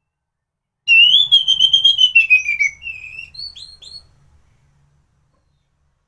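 Orange-headed thrush (anis merah) singing one phrase about a second in: a loud, wavering whistle that slides slowly downward, then a few short, higher clipped notes, over within about three seconds.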